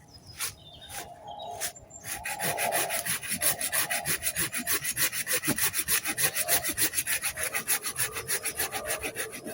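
Hand saw cutting through a branch of wood: a few slow starting strokes, then a quick, even sawing rhythm from about two seconds in.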